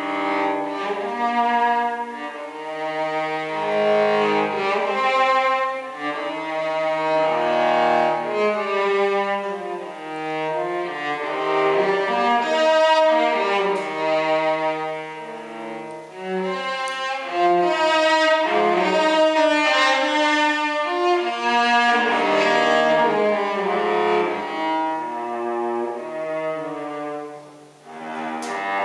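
Cello played with the bow in a classical piece, one held note moving into the next. The playing dips briefly just before the end, then comes back with a sharp new attack.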